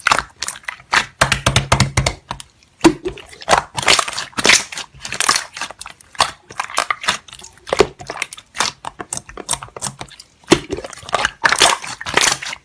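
Slime being pressed, squeezed and poked in the hands, giving a dense, irregular run of crackling, crunching clicks.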